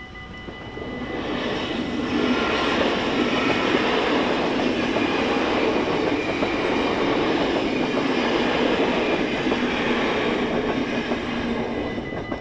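Double-deck NS passenger train passing over a level crossing at speed. Its rumble swells about a second in, stays loud for about ten seconds, then drops away near the end. The crossing's warning bells ring steadily, heard plainly at the start and again as the train leaves.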